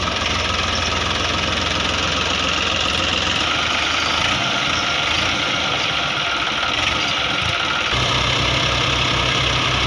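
Tractor diesel engine running at idle with a steady low pulsing; its sound changes abruptly about eight seconds in.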